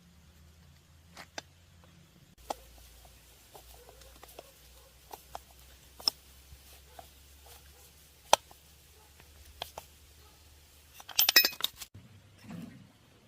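Scattered sharp clicks and taps of metal parts and hand tools being handled during engine repair work, the loudest a single knock past the middle, followed near the end by a brief run of rapid clinking.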